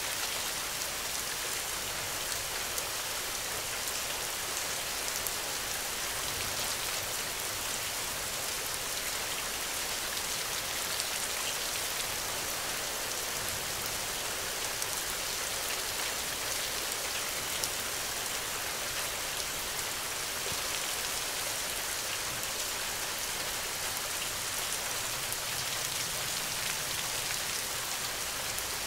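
Steady rain falling: a dense, even hiss with many fine ticks of single drops.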